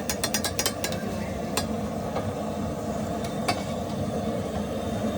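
A cook's metal utensil tapping rapidly on the cooking surface for about the first second, then two single clinks, over a steady rumble of road traffic.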